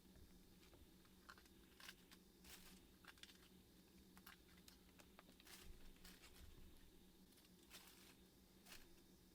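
Near silence with faint, irregular small crackles and clicks scattered throughout.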